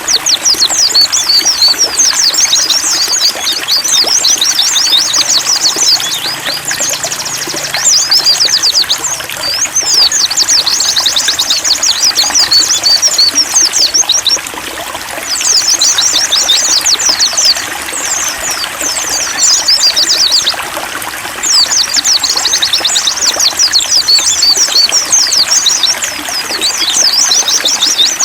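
White-eyes (pleci) singing long, rapid, high twittering phrases with brief pauses between them, over a steady trickle of running water.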